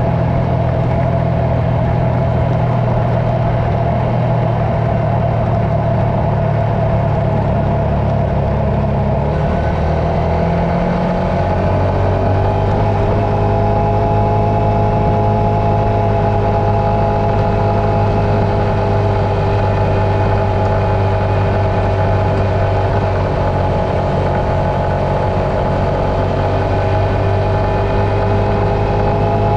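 A vehicle engine running steadily, its pitch rising smoothly about ten seconds in and then holding at the higher speed.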